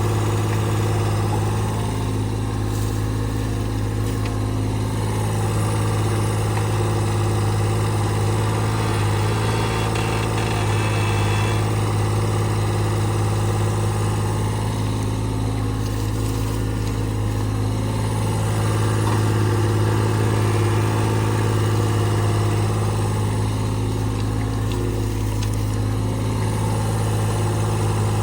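Diesel engine of a Caterpillar 303CR compact excavator running steadily at a constant speed, with a strong, even low hum, during a burn test of the machine.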